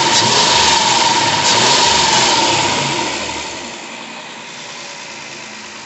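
3.8 L V6 engine running loud with a steady whine, then dropping to a quieter, steady run about three seconds in. It runs smoothly, no longer shaking, after its cylinder-3 misfire was fixed.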